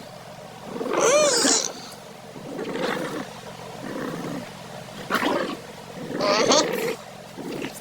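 Terrier growling and grumbling in several drawn-out calls that waver in pitch, with short pauses between them.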